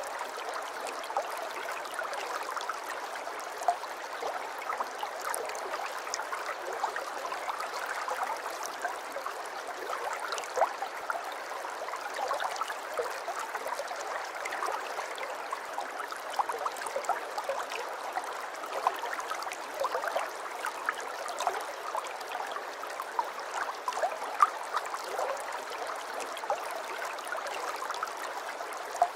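Aquarium water trickling and gurgling steadily, a continuous run of small bubbly splashes.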